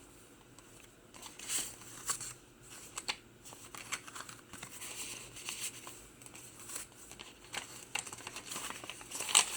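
Paper pages of a handmade journal being turned and handled, rustling and crinkling in a string of short rustles, the loudest near the end.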